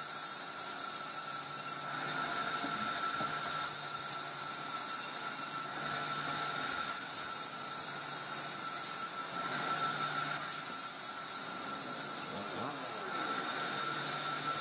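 Sawmill saw cutting through a coconut palm log: a continuous rasping noise with a steady high whine, the hiss turning brighter and duller every couple of seconds.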